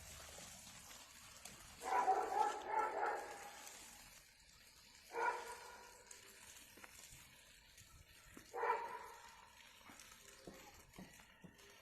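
A dog barking: a short run of barks about two seconds in, then a single bark about five seconds in and another about eight and a half seconds in.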